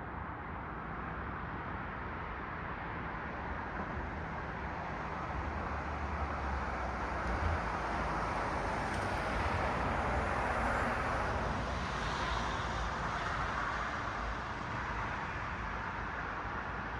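Road traffic: the tyre and engine noise of a car passing on a city street, swelling to its loudest about ten seconds in and then fading, over a steady hum of more distant traffic.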